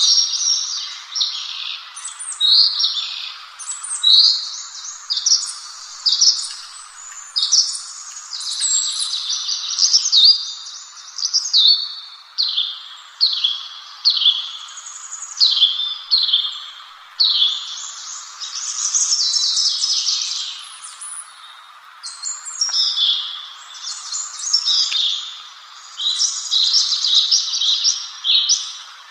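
A songbird singing, repeating short, high, sweeping phrases about once a second, over a steady background hiss.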